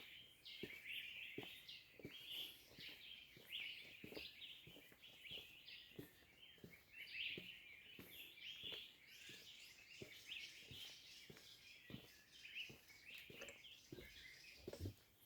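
Faint, busy chorus of small birds chirping, short calls following one another without pause, with scattered soft clicks.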